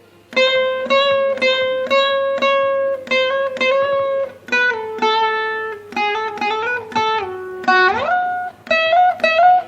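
Veena played solo: a run of plucked notes about every half second, stepping down in pitch, then a long upward slide along the fret of nearly an octave near the end, from lower dha to higher dha, before a few higher plucked notes.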